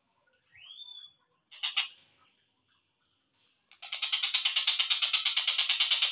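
Slowed-down recording of a collared kingfisher (tengkek buto) calling. A single note rises and levels off, then comes one short, loud, harsh call, and from about four seconds in a fast, even, rattling series of notes at roughly nine a second.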